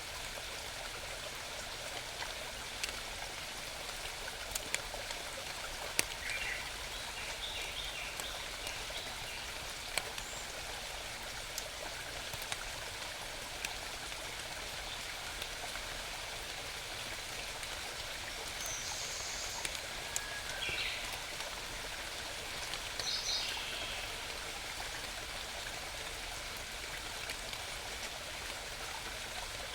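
A small mountain stream babbling steadily, with a few short bird chirps rising over it about a quarter of the way in and twice more past the middle.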